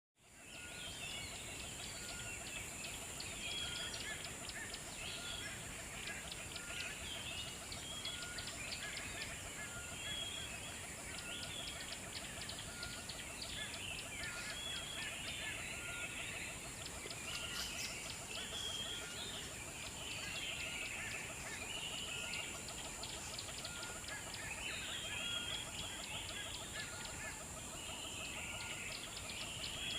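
Small birds chirping and chattering in a busy stream of calls, with one short note repeated about once a second, over a steady high-pitched hiss.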